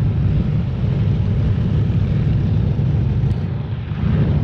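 Race-car engines at a drag strip running with a loud, steady low rumble.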